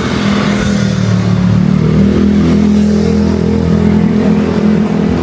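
A motor vehicle's engine running close by, a steady low hum with some hiss of wind.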